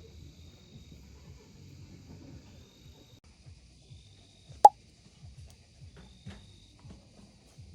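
Wood fire crackling softly, with one loud sharp pop a little past halfway. Insects chirr faintly and steadily in the background.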